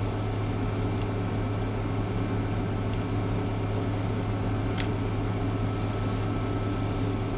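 Steady mechanical hum with a fan-like rush, unchanging throughout, and a faint click about five seconds in.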